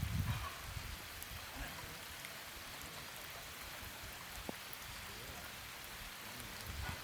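Steady rain falling, an even hiss sprinkled with small drop ticks, with a few low bumps in the first half second.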